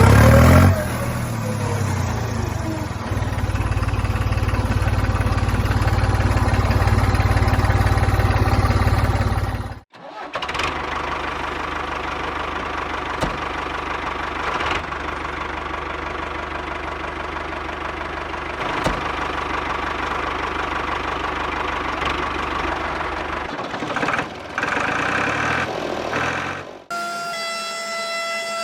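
A small machine's motor running steadily. It is loudest for the first ten seconds, cuts off abruptly, then runs again a little quieter. Near the end it cuts out and a few steady ringing tones take over.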